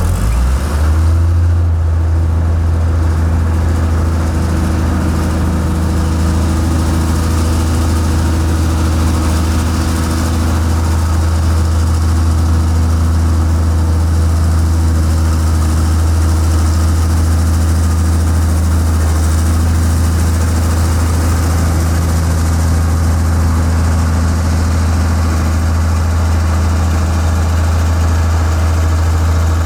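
Heavy machine's engine running steadily at a low, even speed after rising in pitch during the first second or so.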